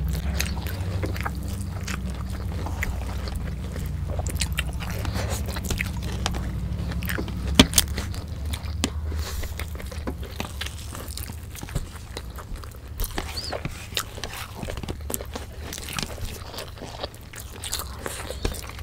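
Close-miked eating: chewing and biting of stir-fried rice noodles and crisp fried spring rolls, with scattered crunches and wet mouth clicks. A low hum sits under the first half and fades out.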